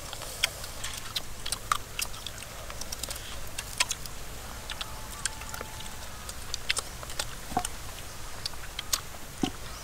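People biting and chewing small raw green fruits: many irregular crisp crunches and clicks of bites.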